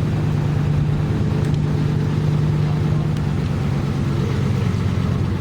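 Car driving slowly, its engine a steady low hum with road noise.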